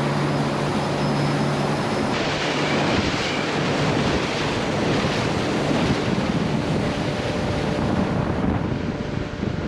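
Small boat running at speed on plane: the motor's steady drone under a heavy rush of water and wind buffeting the microphone. The motor's tone is clear for the first couple of seconds, then is mostly buried in the wind and water noise.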